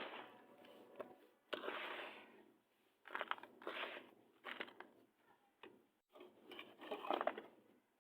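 Clumps of black ASMR sand being crushed and crumbled, a run of irregular crunches coming in bunches with short pauses between them.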